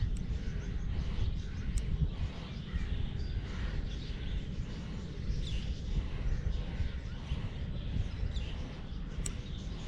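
Birds chirping in short, scattered calls over a steady low rumble, with a few sharp ticks.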